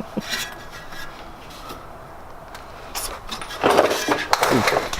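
Faint workshop background, then from a little over halfway a burst of loud clattering and scraping of metal tools and equipment.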